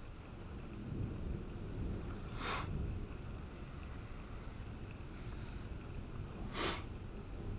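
Thunder rumbling low, swelling about a second in and then easing off. Two short sniffs close to the phone's microphone cut through it, one a few seconds in and a louder one near the end.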